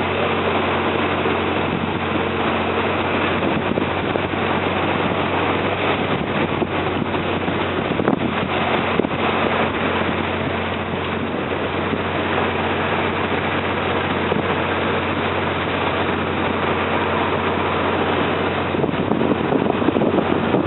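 Engine of a Mekong river slow boat running at a steady pitch under way, with a rushing wash of wind and water over it.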